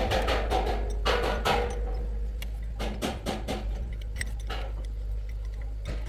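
A tractor's diesel engine running with a steady low rumble, under irregular metallic clinks and clatter that come in clusters near the start, about a second in and around three seconds in.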